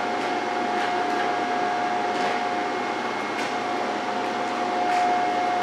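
Steady hum of an electric fan with one constant whine, and a few faint light clicks.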